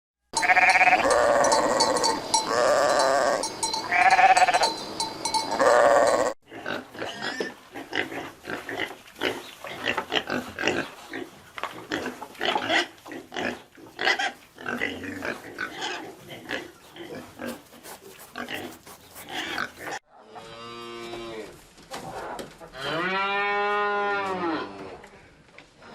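Farm animals calling in several short clips: four loud pitched calls about a second long each in the first six seconds, then a long run of short irregular grunting sounds, then two longer calls that rise and fall in pitch near the end.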